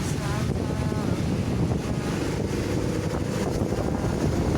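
Steady low engine rumble of trucks under wind buffeting the microphone.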